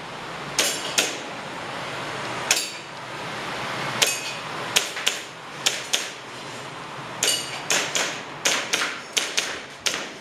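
Airsoft gun firing a string of about fifteen sharp shots at an irregular pace, some in quick pairs, during a practical-shooting course of fire.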